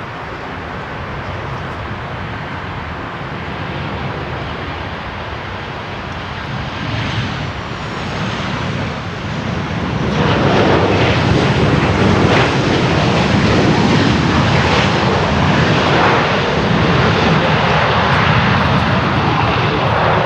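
Boeing 737-800's CFM56 turbofan jet engines on a landing run, a rushing roar that builds steadily, then turns much louder about ten seconds in and stays loud.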